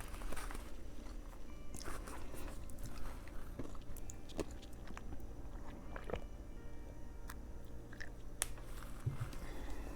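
Close-up chewing of a Subway veggie patty sandwich: soft crunching of bread and filling with wet mouth clicks, a few sharper clicks standing out every couple of seconds.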